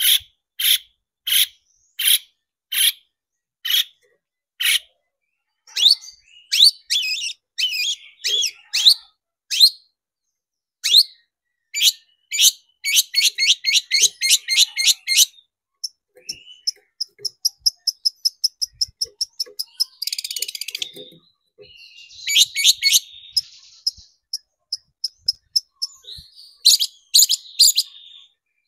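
Long-tailed shrike (cendet) singing: loud harsh notes repeated about every 0.7 s, then a varied song of rapid trills and a run of thin high notes at about six a second, with loud harsh notes again near the end. It is a 'full isian' song, built from notes copied from other birds.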